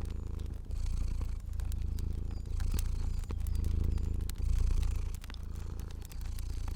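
Domestic cat purring steadily, a low rumble that swells and dips with each breath about once a second, with scattered small crackles and pops of a wood fire over it.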